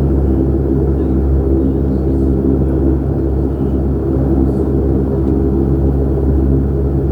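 Steady cabin drone of a Saab 340's twin General Electric CT7 turboprop engines and propellers while taxiing after landing: a strong low hum with a set of steady droning tones above it.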